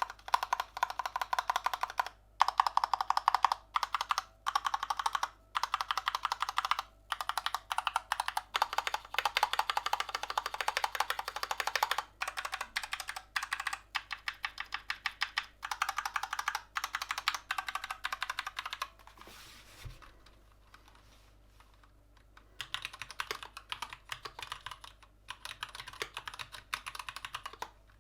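Fast typing on a Gamakay LK67 mechanical keyboard fitted with Gateron red linear switches, keystrokes clattering in quick runs with short breaks. The typing stops for a few seconds about two-thirds of the way in, then resumes more lightly.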